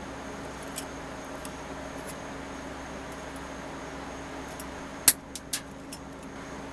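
A few light clicks and taps of small hard parts being handled, the loudest a sharp click about five seconds in followed by two quicker ones, over a steady workshop hum.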